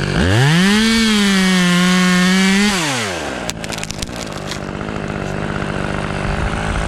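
Chainsaw revving up to full throttle, held high for about two seconds, then dropping back to idle. A few sharp cracks follow, over another engine running steadily underneath.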